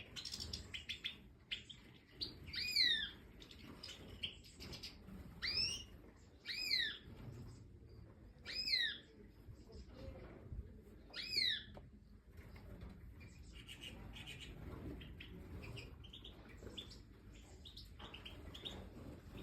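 Goldfinches chirping. About five louder calls slide downward in pitch over the first twelve seconds, with softer short chirps between them and afterwards.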